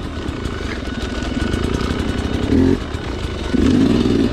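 Sherco two-stroke dirt bike engine running at low revs through technical terrain, with short bursts of throttle about two and a half seconds in and again near the end.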